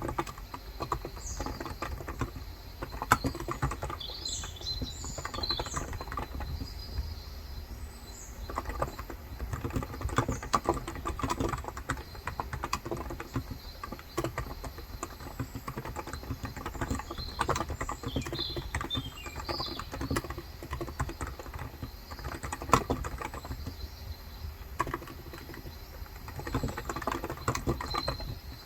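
Typing on a Cox Endeavor electro-capacitive 35 g tenkeyless keyboard, a steady, irregular run of keystrokes. Birds chirp now and then, in the first few seconds and again past the middle.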